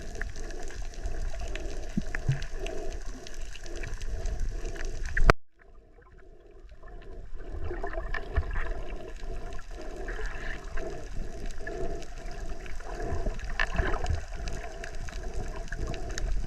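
Underwater sound picked up by a snorkeler's camera: water movement rushing and gurgling around the housing, dotted with many small crackles and clicks. About five seconds in, a sharp click is followed by a sudden drop in the sound, which fades back up over the next two seconds.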